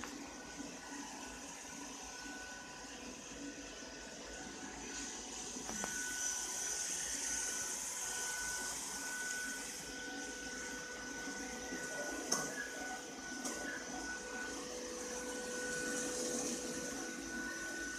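Ropo Glass robot vacuum cleaner running: a steady motor hum with a high hiss that swells for a few seconds, and a couple of light clicks about two-thirds of the way through.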